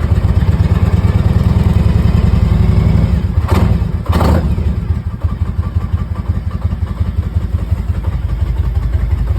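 2001 Harley-Davidson Road King Classic's Twin Cam 88 V-twin idling steadily, warming up after a cold start following four months of sitting. Two short clatters cut in about three and a half and four seconds in.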